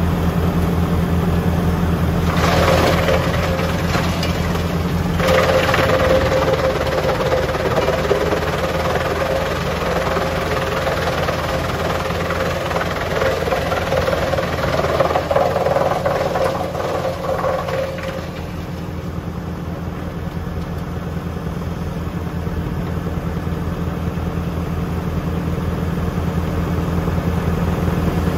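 Tractor engine running steadily under load, driving a Junkkari HJ500 wood chipper. A louder rushing noise with a steady mid-pitched tone, most likely wood being fed and chipped, joins about two seconds in and stops about 18 seconds in, leaving only the engine hum.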